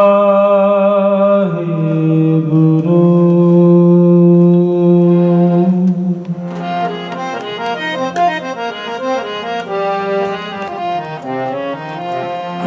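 Harmonium playing long held chords, then a quicker melodic passage, with tabla strokes joining about six seconds in.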